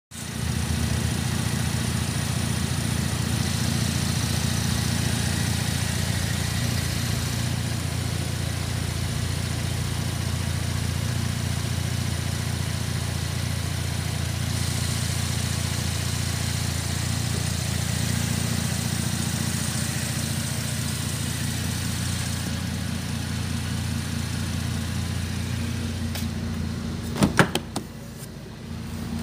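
Holden Commodore 3.0-litre V6 engine idling steadily, heard close from the open engine bay. A few sharp clicks and knocks near the end.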